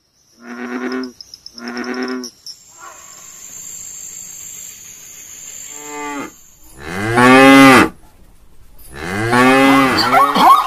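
Cow mooing: a loud, long call falling in pitch about six and a half seconds in, and a second moo starting near the end. Before it come two short bleats and a faint high steady tone.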